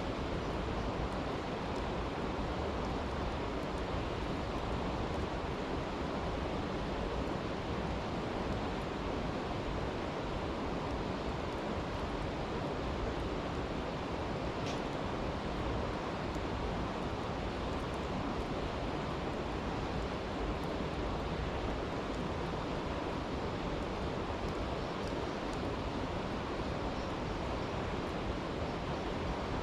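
Steady rushing of a stream, with a few faint crackles from a campfire, the clearest about halfway through.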